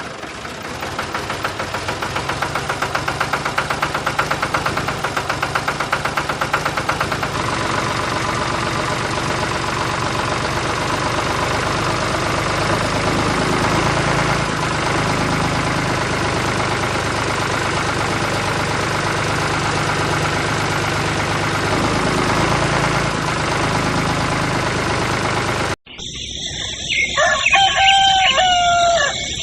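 A homemade mini loader tractor's motor runs steadily with a fast, even pulse. It stops abruptly, and near the end a rooster crows.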